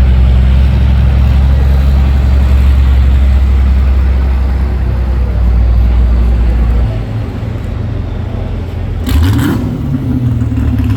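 A pulling vehicle's big engine running loud and steady, easing off about seven seconds in, then a short rising rev near the end.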